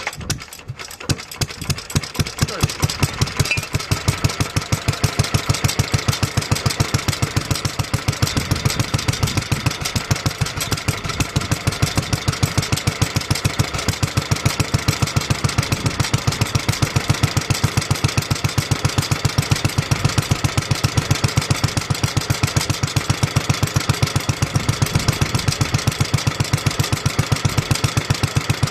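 1954 Petter A1 single-cylinder stationary engine running on choke just after a cold start, firing in an even, regular beat.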